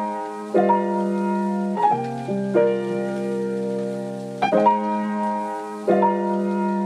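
Sped-up piano chords in an instrumental passage of a pop ballad, with no singing or drums; a new chord is struck every second or two and left to ring.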